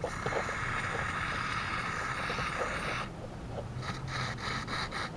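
Aerosol lubricant spraying onto a mobility scooter's rear suspension hinge: a steady hiss of about three seconds, then a few short spurts. The lube is soaking dried-out nylon spacers, the source of the hinge's creaking.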